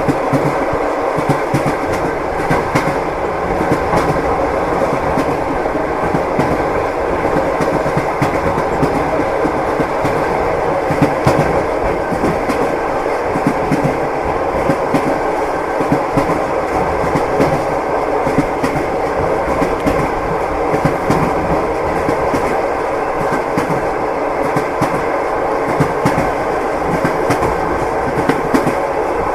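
Moving train: a steady rumble with the clickety-clack of the wheels knocking over the rail joints.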